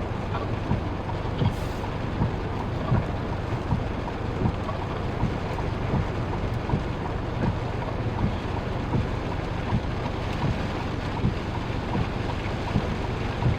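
Steady rain noise heard from inside a parked vehicle, with a soft, regular thump about every three-quarters of a second.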